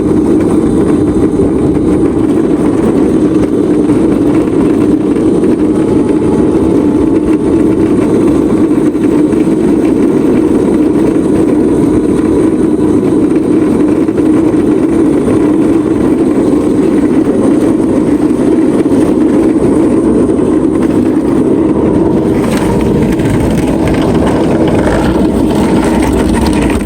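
A crazy cart running steadily at speed while being ridden, its motor drone mixed with rough, steady rumble and wind noise on the microphone.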